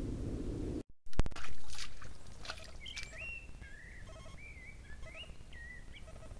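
Low rumbling noise that cuts off abruptly just under a second in, followed by a few loud clicks and knocks. From about three seconds in, a songbird sings short whistled phrases that slide up and down in pitch.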